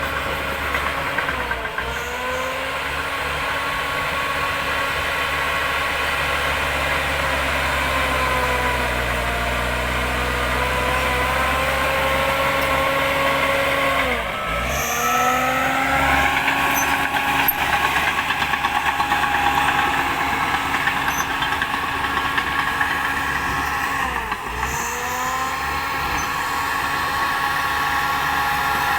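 Diesel engine of a Shantui DH10B2 mini bulldozer running steadily. Its pitch dips sharply and recovers three times: about a second in, halfway, and near the end.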